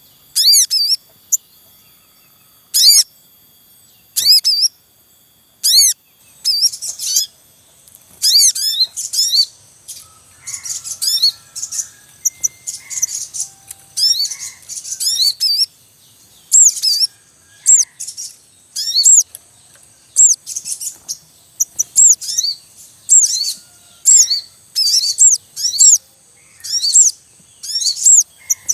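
Sogon birds calling in the wild, a breeding family with young. Clusters of short, sharp, high chirps repeat about once a second in a busy, noisy chorus, with softer lower notes among them from about ten seconds in. A faint steady high whine runs behind.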